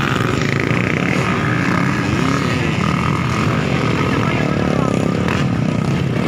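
Several motocross dirt bikes racing, their engines running continuously.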